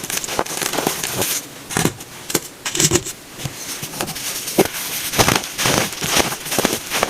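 Packed baking soda being crushed and crunched, a rapid irregular crackling that thins out for a moment in the middle and grows denser again toward the end.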